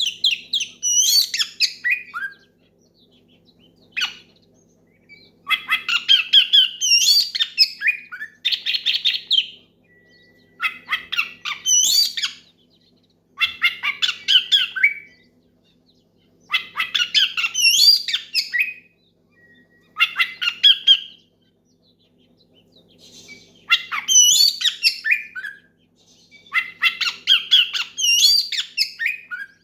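Oriental magpie-robin (kacer) singing loudly in repeated bursts of a second or two, each a rapid jumble of sweeping whistles and harsher notes, with short pauses between. This is a male's full challenge song, calling out to a rival.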